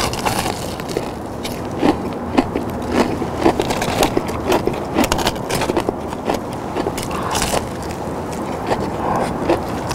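Close-miked chewing of crispy fried chicken: a string of short, sharp crunches, irregular and at times several a second.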